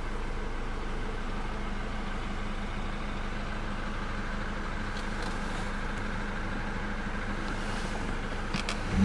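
Jaguar X-Type saloon's engine idling steadily, heard from inside the cabin, with a few light clicks near the end.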